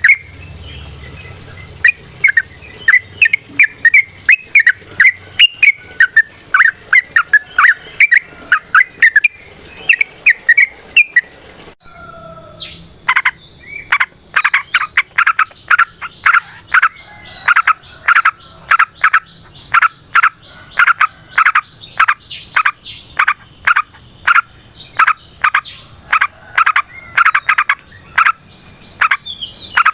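Yellow-vented bulbul (trucukan) singing: bubbling phrases of chirpy notes, then, after a brief break about twelve seconds in, a long fast run of loud, sharp notes at about three a second. This is the long rolling song used as a lure call to get other trucukan singing.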